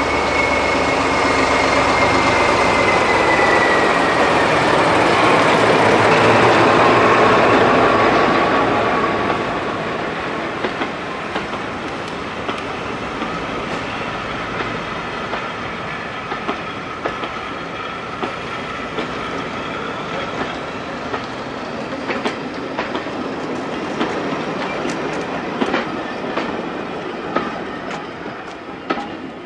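Diesel locomotive passing with its train: the engine is loudest about seven seconds in, then the coaches roll by with repeated clicks of wheels over rail joints, fading near the end.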